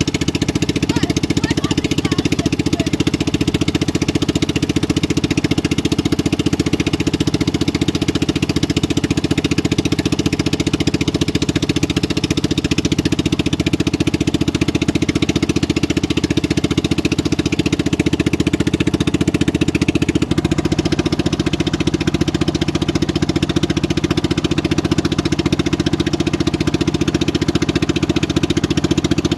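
A boat engine running steadily at an even speed; its tone shifts slightly about twenty seconds in.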